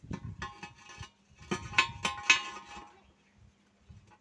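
Metal pieces knocking and clinking against each other, each strike leaving a short ringing tone. There are a few light strikes in the first second, then a louder cluster about one and a half to two and a half seconds in.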